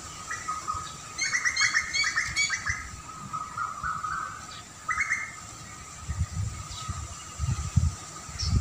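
Songbird chirping: a rapid run of repeated bright notes about a second in, and a shorter burst near five seconds. Under it is a steady faint high tone, and a low gusty rumble comes in toward the end.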